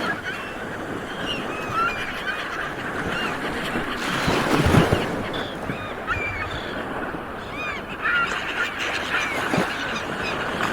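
A flock of sea birds calling, many short overlapping honking calls over a constant rush of background noise, which swells louder about four seconds in.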